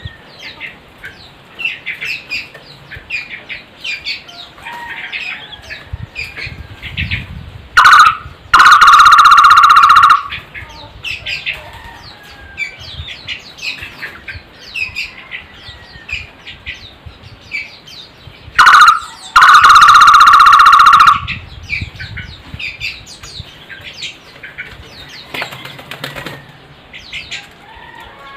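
Barbet (takur) calling loudly twice, each call a short note followed by a long held note lasting about two seconds. Quick high chirps of small birds run throughout.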